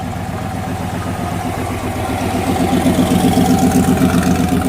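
A car engine idling steadily, growing somewhat louder past the middle and easing off slightly near the end.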